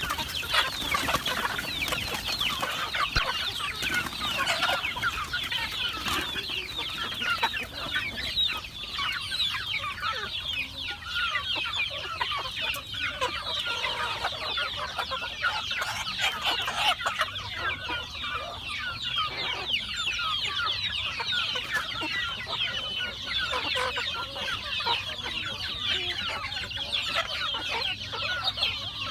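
A flock of chickens calling and clucking continuously, many overlapping calls at once.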